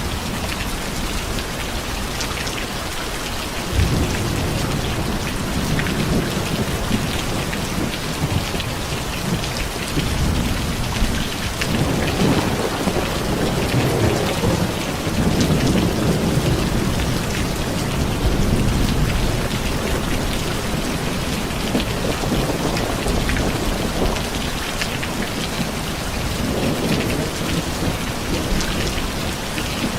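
Steady heavy rain falling, with a low roll of thunder that starts about four seconds in, swells in the middle and rumbles on until near the end.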